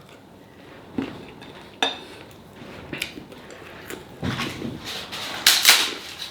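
Cutlery clinking and scraping on a plate while eating: a few separate clicks, then a louder run of scraping and clatter near the end.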